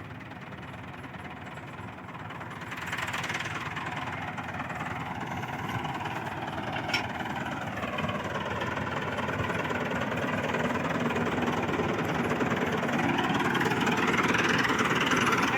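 Tractor engine running and revving up, growing steadily louder, its pitch dipping and then rising again. A short sharp click comes about seven seconds in.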